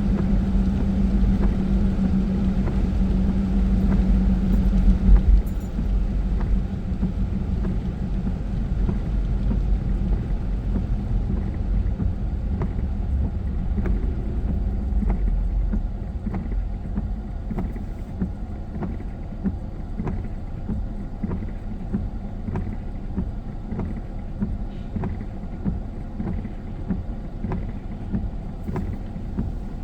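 Car road noise heard from inside the cabin while driving in the rain: a steady rumble of tyres on the wet road and the engine. It eases after about five seconds and drops again after about sixteen seconds as the car slows. From about twelve seconds in, a regular ticking sounds, roughly one to two ticks a second.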